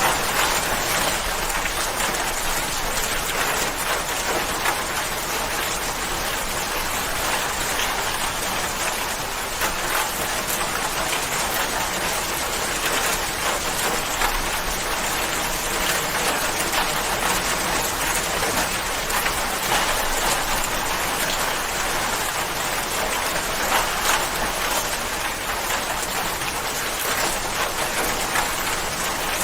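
Steady rain falling, a dense, even hiss of drops pattering on surfaces, with no change in strength.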